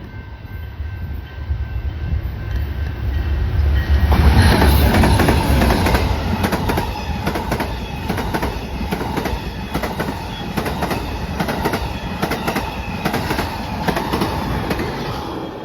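A train passing close by: a low rumble builds, then about four seconds in the train arrives and its wheels click steadily over the rail joints as the cars roll past.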